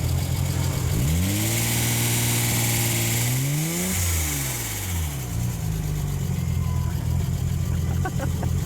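Nissan Stagea C34's RB26 twin-turbo straight-six idling, then revved up about a second in, held for a couple of seconds, pushed higher to a peak, and allowed to fall back to a steady idle about five seconds in.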